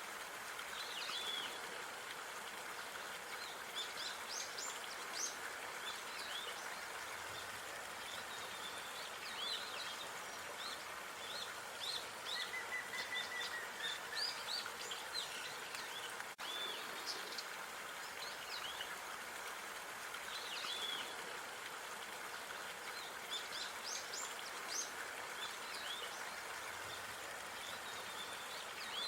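Outdoor park ambience: a steady background hiss with small birds chirping in short, high calls throughout, and a brief lower trill about twelve seconds in. The sound cuts out for an instant about sixteen seconds in.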